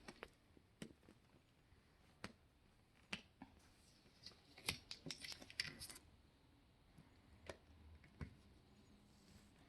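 Faint, scattered clicks and a short scratchy rustle about halfway through: a large cardboard box being handled and opened.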